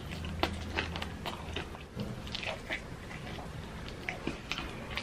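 Close-miked biting and chewing of fried chicken, with irregular short clicks and wet mouth sounds.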